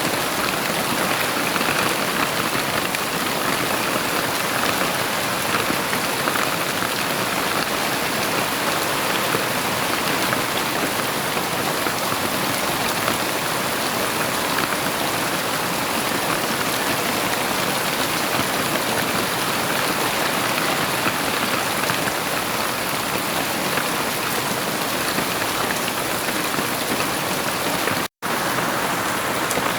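Heavy rain falling in a steady, even downpour, with no thunder. Near the end the sound cuts out for an instant and comes straight back.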